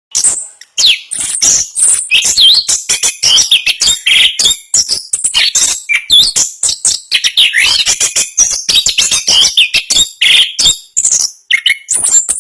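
Chestnut-capped thrush (anis kembang) singing a fast, dense, unbroken song of rapid whistles and chatters: the rolling 'ngerol' style, delivered at speed and tightly packed.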